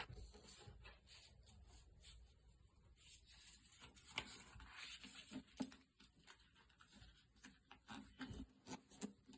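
Paper being folded and creased by hand: faint rubbing and rustling with scattered small crinkles and taps, busiest about halfway through.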